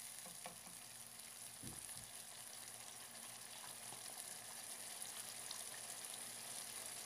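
Spiced onion-tomato masala sizzling faintly in hot oil in a frying pan as whisked yogurt is stirred in, with a few light knocks in the first two seconds.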